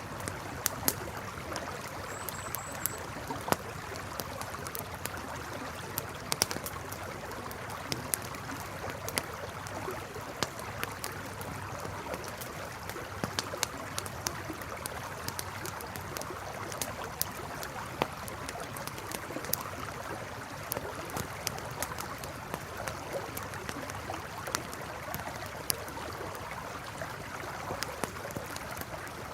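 Campfire crackling with frequent sharp irregular pops, over a river flowing steadily. A brief high chirping sounds about two seconds in.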